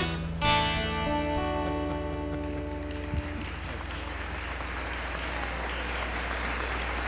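Dulcimer playing the last strummed chords of a carol, the final chord ringing out and fading over about two seconds, followed by an audience applauding.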